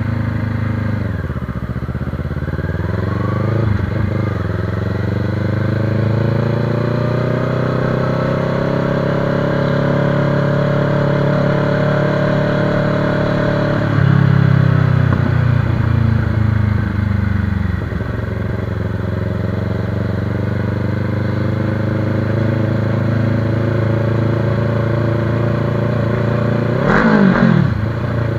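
Motorcycle engine heard from the rider's seat while under way, its pitch climbing and falling with the throttle and gear changes several times. A brief louder rev that rises and drops sharply comes near the end.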